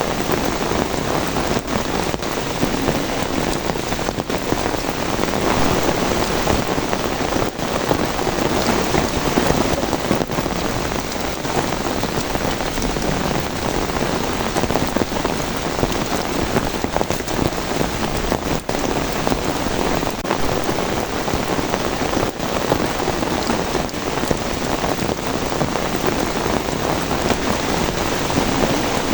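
Heavy rain falling steadily, a dense even hiss of drops with no break.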